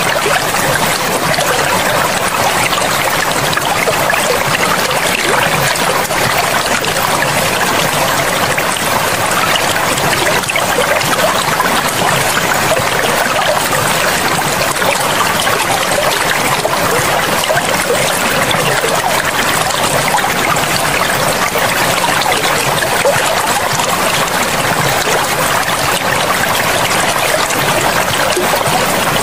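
Forest river flowing steadily, an even rush of running water with no change throughout.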